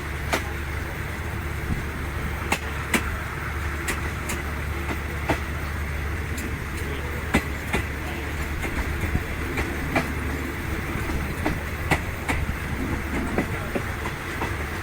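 Third-class railway passenger coach running along the track: a steady low rumble with sharp clicks and knocks from the wheels and carriage at irregular intervals.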